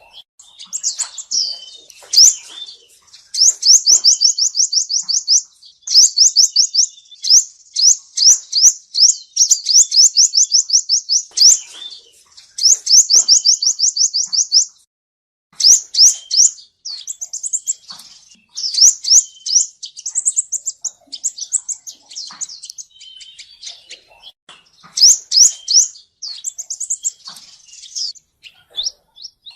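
Male sunbird singing: rapid high trills of quick rising notes, about ten a second, in phrases of one to three seconds with short breaks, and a longer pause about halfway through.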